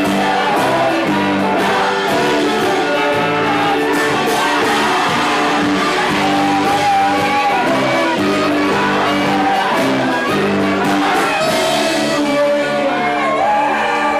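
A live rock band playing loudly, with strummed electric guitar chords and a voice singing over them at times.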